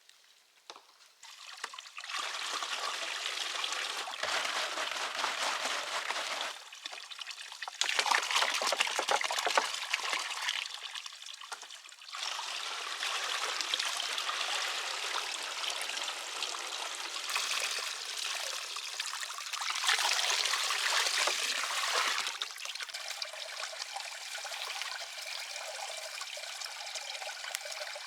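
Water running and pouring in several spells that stop and start.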